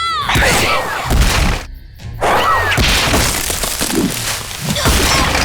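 Cartoon fight sound effects: a dense run of hits, crashes and whooshes over action music, breaking off briefly about two seconds in.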